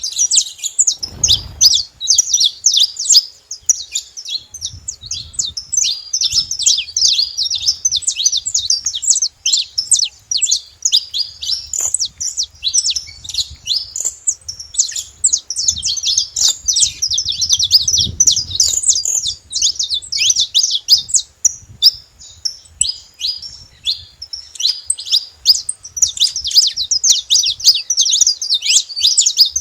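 Wild saffron finches singing, a steady stream of quick, high chirps and trills with no pause.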